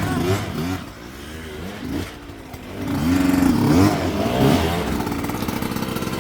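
Enduro dirt bike engine revved in short throttle blips, each a quick rise and fall in pitch; softer for a couple of seconds, then louder from about three seconds in.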